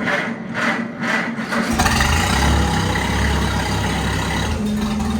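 Old tractor engine cold-started on choke: the starter cranks it over with about three even pulses a second, it catches a little under two seconds in and then runs steadily.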